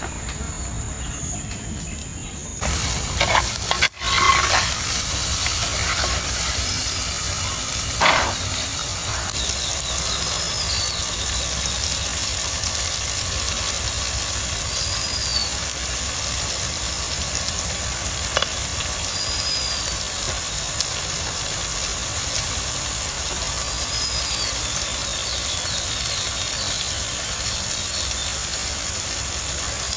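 Food sizzling and frying in a cooking pot, the hiss starting suddenly a few seconds in as something goes into the hot pan, with a few knocks of a utensil against the pot.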